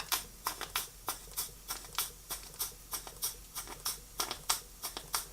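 Small model over-type steam engine running on steam, its exhaust chuffing in a steady rhythm of about three beats a second.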